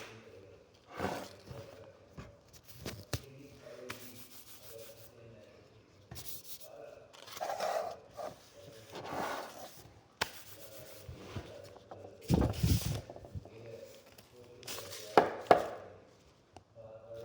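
Intermittent rubbing and scraping of hands working slime-making materials, in short separate bursts with a few sharp clicks, the loudest near the middle and towards the end.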